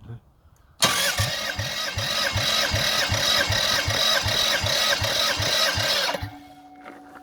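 Toyota 1MZ-FE 3.0 L V6 engine being cranked on its starter for about five seconds, with a regular low pulsing about two and a half times a second. It cuts off suddenly, leaving a faint steady hum.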